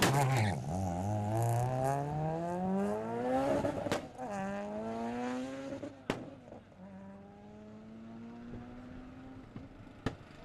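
Audi A3 hatchback's engine at full throttle on a drag-strip run, climbing in pitch through the gears. A sharp crack marks each upshift, three times. It fades steadily as the car pulls away.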